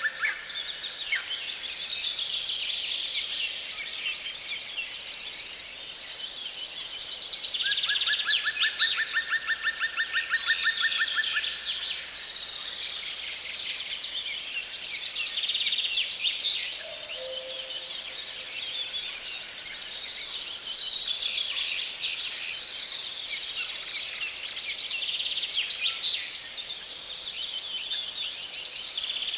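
Many songbirds singing together in a continuous dawn-chorus-like mix of chirps and warbles. A long, evenly pulsed trill runs for about four seconds a quarter of the way in.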